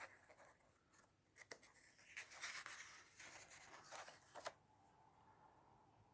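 Faint rustling of a paper instruction leaflet being handled, with a few light clicks and taps; the rustling swells from about two seconds in and stops with a couple of taps about four and a half seconds in.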